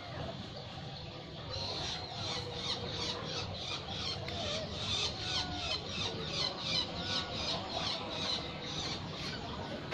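Birds chirping rapidly and repeatedly, about three or four high calls a second, starting a second and a half in, with softer squeaky calls underneath.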